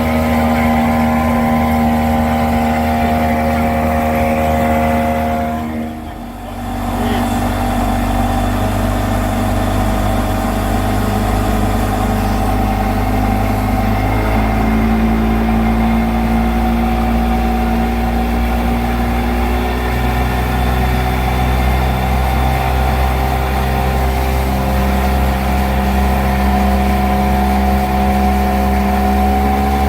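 Rebuilt Evinrude 200 HP V6 VRO two-stroke outboard running under way. Its note drops away briefly about six seconds in, then comes back and holds steady, shifting pitch slightly a couple of times.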